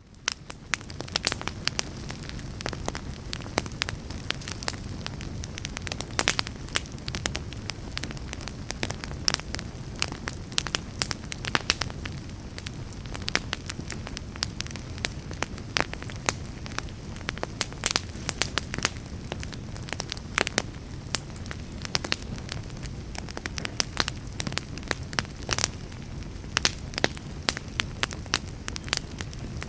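Wood logs burning in a fireplace: a steady low rumble of flame with frequent sharp, irregular crackles and pops, fading in over the first second.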